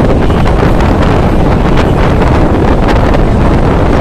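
Wind buffeting the microphone at the open door of a moving local train, over the train's steady running noise, with scattered sharp clicks and rattles.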